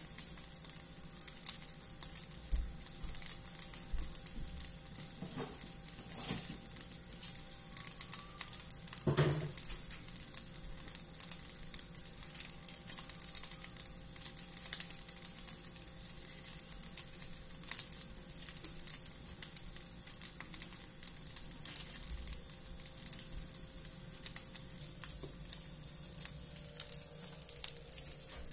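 Fried rice sizzling and crackling in an aluminium wok on a gas burner, with scattered small clicks and a louder knock about nine seconds in.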